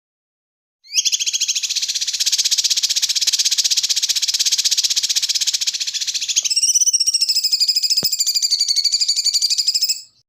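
A songbird's high, very fast rattling trill, starting about a second in. About two-thirds through it changes to a quavering, warbling trill, then stops abruptly near the end. This is a clip of the song used as training material for white-rumped shamas.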